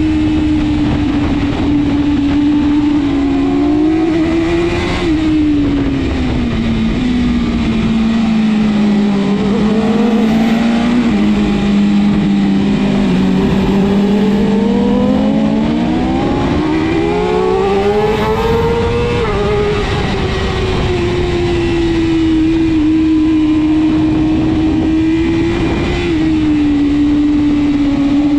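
BMW S1000RR inline-four superbike engine running hard at racing speed, with a rushing noise underneath. Its note holds steady, drops low through the middle, then climbs quickly to a higher pitch a little after halfway and falls back to a steady note.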